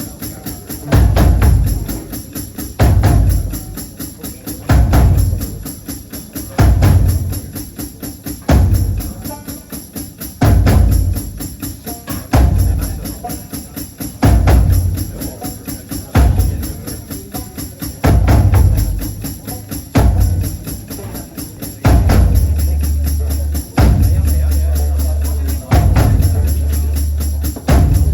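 Live band playing an instrumental intro: a heavy bass-and-drum hit about every two seconds with a tambourine shaking in between. Near the end the low bass notes are held longer.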